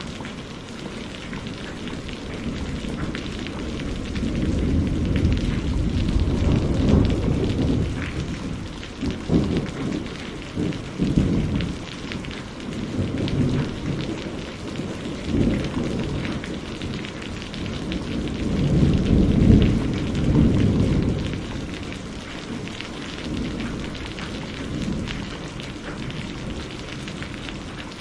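Steady rain falling, with long rolls of thunder that swell and die away: one rumble builds a few seconds in, crackles and rolls through the middle, and a second, loudest one peaks about two-thirds of the way through before fading.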